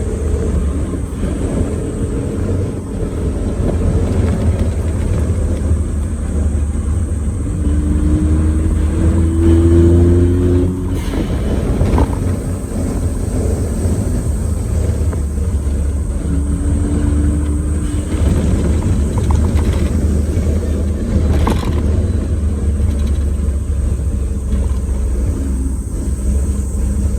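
Suzuki Jimny JA11 on Geolandar X-MT mud-terrain tyres driving on a paved road: a steady low rumble of engine and road noise, with a faint rising whine twice as it speeds up.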